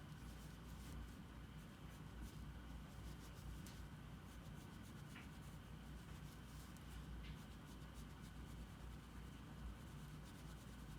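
Faint scratching of a drawing tool on paper in short, irregular strokes, over steady low background noise.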